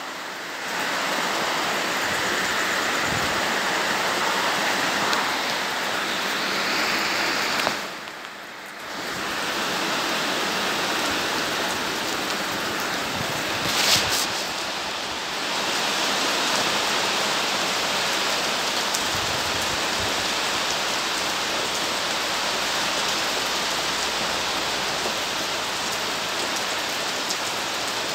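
Steady rain falling, a dense, even hiss. It dips briefly about a third of the way in, and there is a short louder burst about halfway through.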